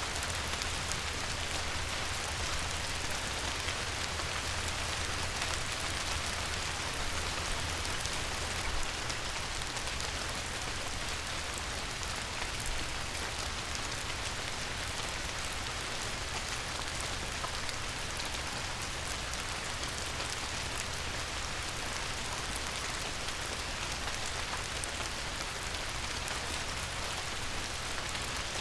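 Light rain falling on a river, a steady even patter of many small drops hitting the water, with a low steady rumble underneath.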